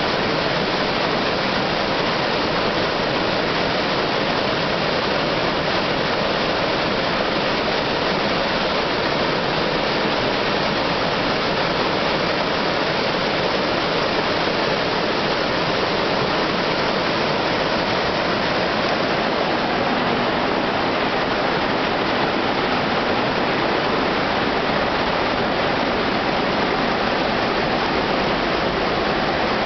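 A spring-fed waterfall rushing steadily, a constant dense hiss of falling water that starts suddenly and does not change.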